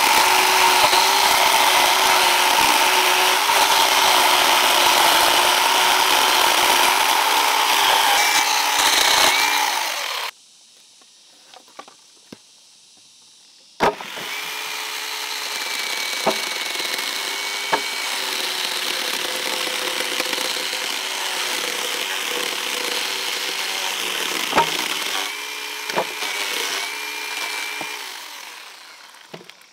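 Power saw running and cutting, its pitch dipping briefly under load. It stops about a third of the way in, starts again a few seconds later with a sharp click, runs with a few knocks, and dies away near the end.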